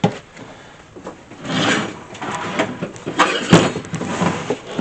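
Rustling of packaging and sharp knocks of parts being handled as a diesel heater kit is unpacked from its box. The loudest knock comes a little past the middle.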